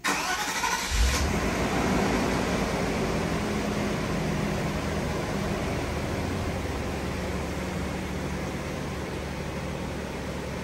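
Mercedes-Benz 420SEL's 4.2-litre V8 starting from cold: a short crank that catches about a second in, then a steady fast cold idle that slowly eases down.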